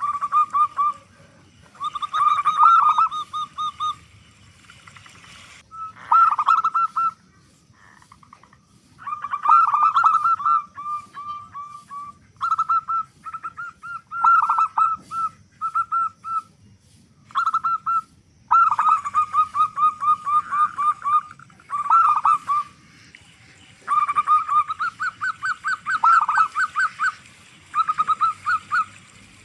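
A big-voiced local zebra dove (perkutut) cooing: repeated phrases of quick ringing coo notes, each phrase lasting a few seconds, with short pauses between them.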